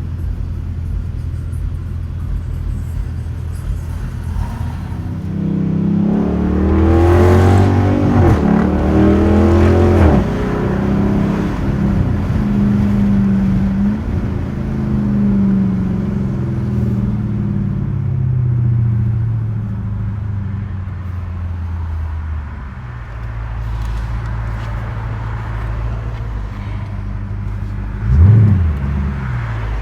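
Straight-piped 2021 Dodge Durango R/T's 5.7-litre HEMI V8 exhaust, loud and deep. About five seconds in it accelerates, its pitch rising, then settles back to a steady cruise. Near the end there is one short, sharp rev.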